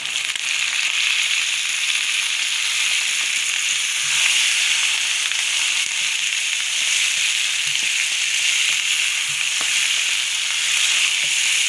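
Fresh fenugreek leaves and beef keema masala frying in a hot wok: a steady sizzle that gets louder just after the leaves go in, with a plastic spatula stirring through them.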